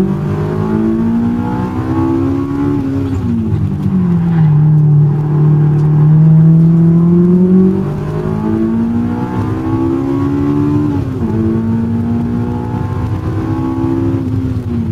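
Honda S2000 AP1's F20C four-cylinder engine driven hard on a circuit. Its pitch climbs, then drops sharply at about three seconds and again at about eleven seconds. It is loudest and steadiest from about four to eight seconds in.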